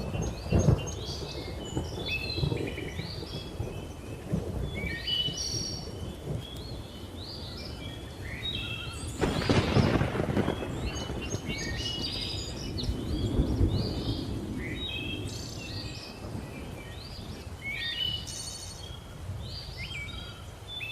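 Many birds chirping and calling over distant thunder rumbling, with a louder thunderclap about nine seconds in and another rumble a few seconds later.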